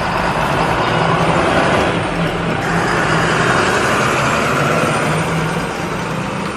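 A vehicle engine running steadily under a loud rushing noise, with a low hum throughout.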